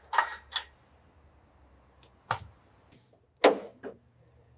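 Sharp metallic knocks and clanks of tools working on a newly fitted exhaust muffler while it is tightened in place. There are about five separate knocks, two near the start and two close together late on, over a faint low hum.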